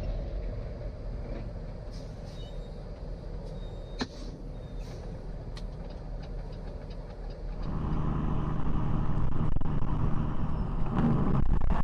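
Truck engine and road noise, a steady low rumble. A single click comes about four seconds in. Near eight seconds a louder engine hum with a steady low pitch takes over.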